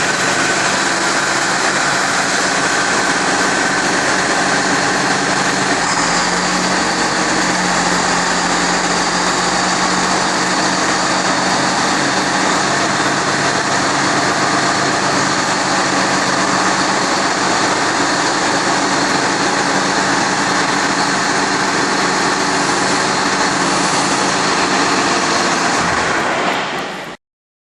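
Case IH 7250 Magnum tractor's six-cylinder turbo diesel engine running steadily, cutting off suddenly near the end.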